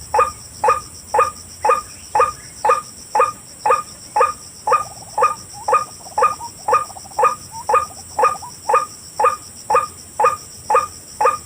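White-breasted waterhen (ruak-ruak) call: a short croaking note repeated steadily about twice a second.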